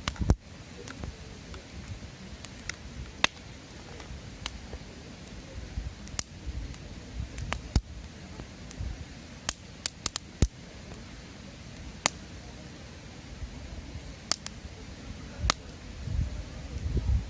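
Wood fire crackling, with sharp, irregular pops and snaps from the burning wood over a low rumble.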